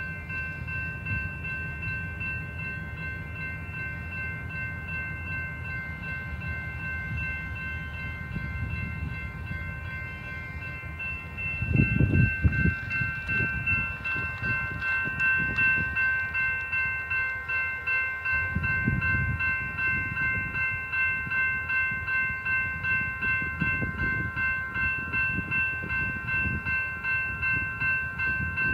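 A freight train rolling past with a low rumble, which grows louder about twelve seconds in and then settles into an even clack of wheels over rail joints, about one and a half a second. Over it, a steady ringing bell, typical of a grade-crossing signal.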